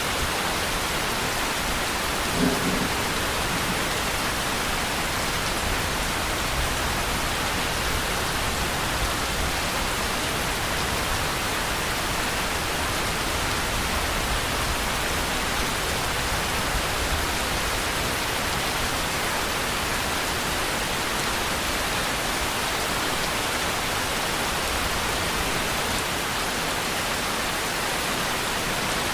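Steady rain, a dense even hiss of falling drops, with a low thunder rumble underneath. A brief low thump stands out about two and a half seconds in.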